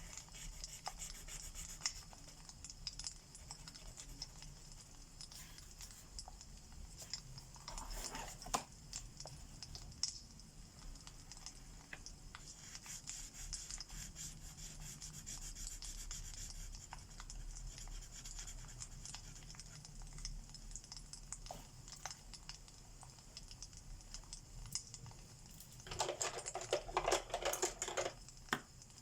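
Alcohol marker tips rubbing and scratching on paper in coloring strokes, with a longer, louder spell of back-and-forth strokes near the end. A steady fireplace crackle with scattered small pops runs underneath.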